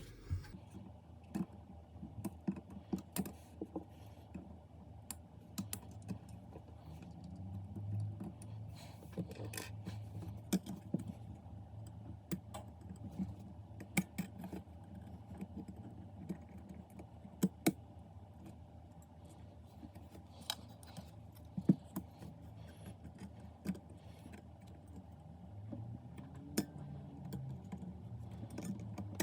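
Irregular sharp clicks and taps, several a second, over a low steady hum.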